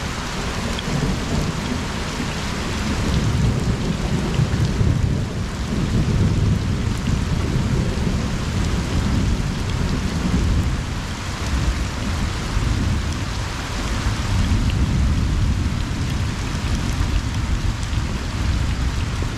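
Steady rain pattering on a pond and its surroundings, with a low rumble of distant thunder that swells and fades several times.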